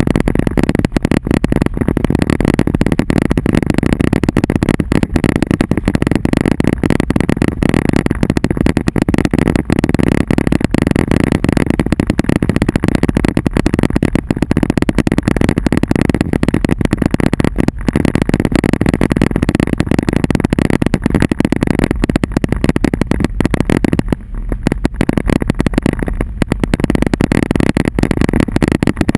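Hail and rain drumming densely and loudly on a vehicle's roof and body, heard from inside the cab, easing briefly about three-quarters of the way through.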